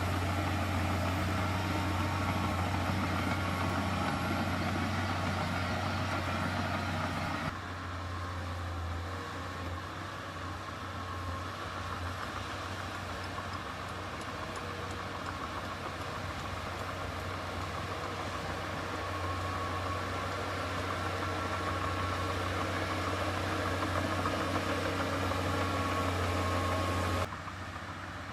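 Heavy diesel engine of earthmoving equipment running steadily with a low, even hum. The sound drops abruptly about seven seconds in and shifts again suddenly a second before the end.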